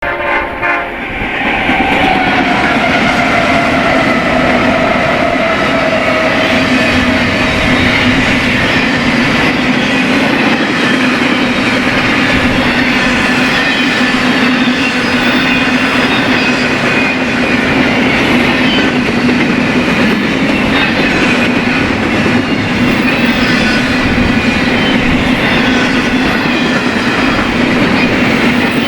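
BNSF eastbound freight train rolling past: locomotives and railcars on the rails. Loud and continuous, starting abruptly, with sustained tones, one of which sinks slowly in pitch over the first several seconds.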